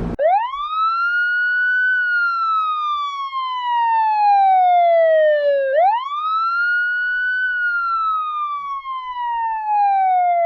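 Police car siren in a clean electronic wail with no other sound behind it. It makes two long cycles: each rises quickly, then falls slowly. The second cycle starts about halfway through.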